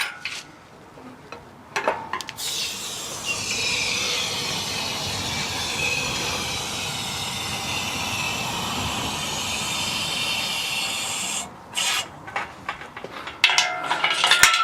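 Hydraulic engine crane being let down: a steady hiss of fluid through the opened release valve for about nine seconds, stopping suddenly, with a few clicks and knocks before and after it.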